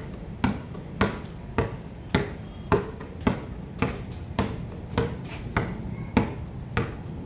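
Basketballs bouncing on a hard court, a steady dribble of about two bounces a second with fainter bounces from other balls in between.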